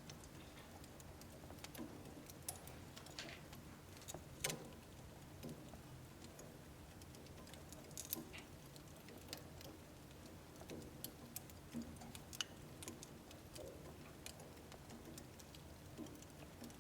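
Wood fire in a home wood-burning stove crackling quietly: scattered small pops and ticks over a faint low hum, the sharpest pop about four and a half seconds in.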